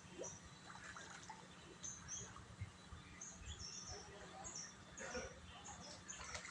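Small birds chirping: a string of short, high chirps repeating every half second or so, faint, over a low steady hum.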